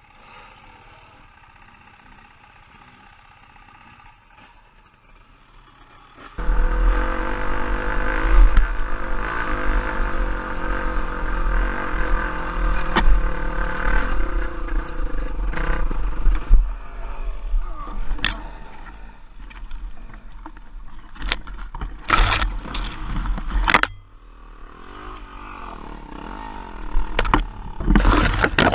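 Trail bike engine running, faint at first and suddenly much louder about six seconds in, with a heavy low rumble. Several sharp knocks or clatters come near the end.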